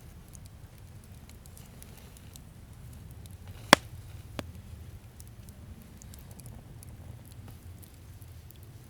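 Wood campfire crackling faintly, with one sharp loud snap a little under four seconds in and a smaller snap about half a second later.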